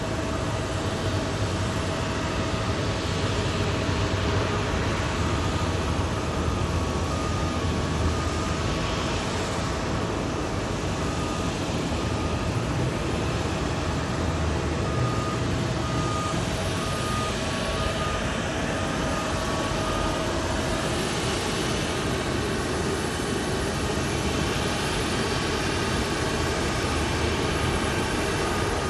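Airport ambience: a steady roar of jet and ground-vehicle noise with a low hum, and a short high electronic beep repeating from about ten seconds in, like a vehicle's reversing alarm.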